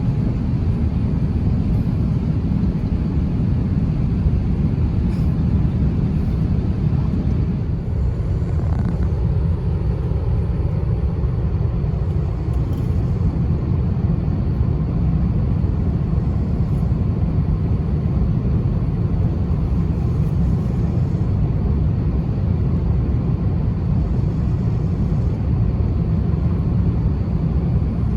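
Steady low rumble of airliner cabin noise inside an Airbus A350-900, from its Rolls-Royce Trent XWB engines and the airflow.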